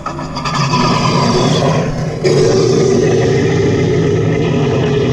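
Gee Bee Z RC model airplane with its electric motor and propeller, and a Benedini sound module playing a simulated piston engine, powering up: the sound grows louder, steps up about two seconds in, then runs steadily.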